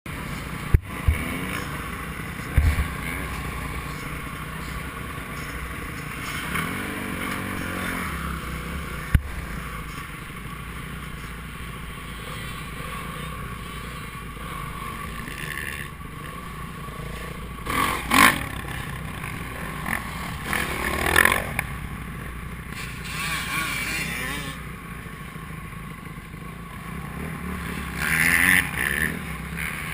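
Motocross motorcycles running on a track, their engine noise surging louder a few times, with a few sharp knocks near the start and about nine seconds in.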